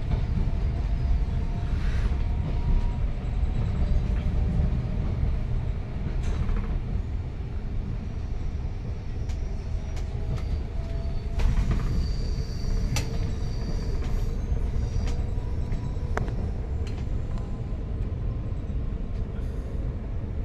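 Inside the carriage of an electric regional passenger train running along the line: a steady low rumble of wheels on track, with a few faint clicks.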